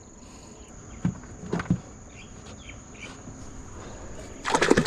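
Insects, cricket-like, keep up a steady high-pitched drone, with a few soft knocks about a second in. Near the end a fishing reel starts a loud run of rapid ratcheting clicks.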